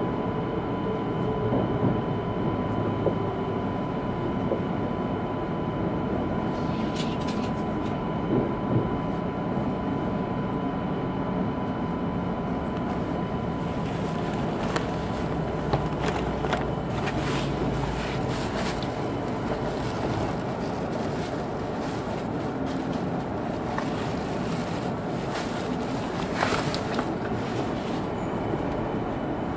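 Cabin noise inside an E2 series Shinkansen car: a steady low rumble and hum with a thin steady tone, and scattered clicks and knocks through the second half.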